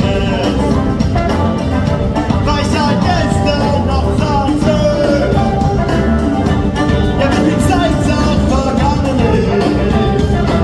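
Rock band playing live at full volume, with drums, guitars and a voice or lead line over the top.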